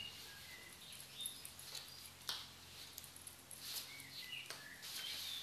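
Small birds chirping faintly in short, scattered calls, some sliding in pitch, with a few soft scrapes of a spatula trimming excess paste from a silicone mould.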